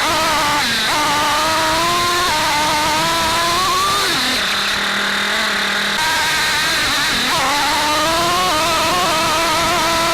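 Kyosho FO-XX GP radio-controlled car's small nitro glow engine running hard, its note climbing and dropping with throttle. About four seconds in it falls to a low steady note for about two seconds, then winds up again.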